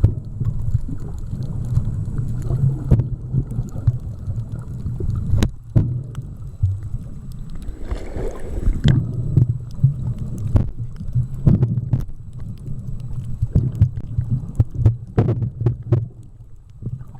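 Sound of a camera recording underwater while snorkelling: a muffled low rumble of water against the camera housing, with scattered sharp clicks and pops and a short burst of bubbly hiss about halfway through.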